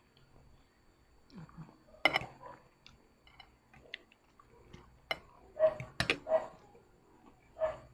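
Someone eating noodles: chewing, with sharp clicks of utensils against a bowl, the loudest about two seconds in and again around five and six seconds in. Several short pitched sounds come in the second half.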